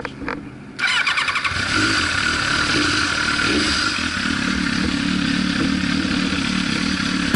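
Kawasaki ZX7R inline-four sport bike engine running under way with wind rushing past the helmet-mounted action camera. It starts abruptly about a second in and then holds steady.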